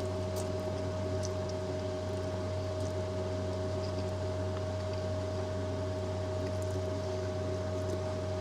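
Steady mechanical hum of the truck's running machinery, holding several steady tones, with a few faint small clicks over it.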